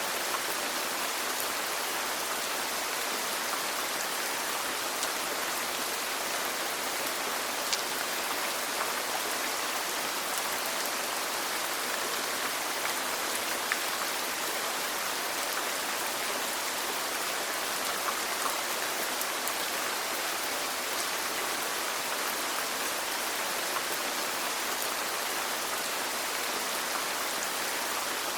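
Steady rainfall, a constant hiss with scattered small drop ticks.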